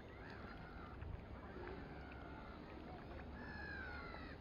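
Birds calling over the water: a series of drawn-out calls that fall in pitch, the longest about three seconds in, over a low background rumble.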